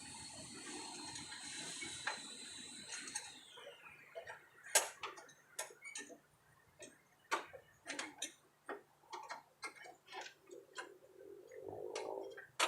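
Irregular sharp metallic clicks and taps from hand work on a mower deck's blade engagement linkage, clips and cable. A steady high whine runs for the first three seconds, then slides down and fades.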